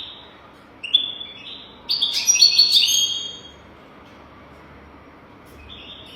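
European goldfinch singing: a short call, then a brief twittering phrase about a second in and a louder burst of rapid high twittering and trills from about two seconds in, lasting over a second; a faint call near the end.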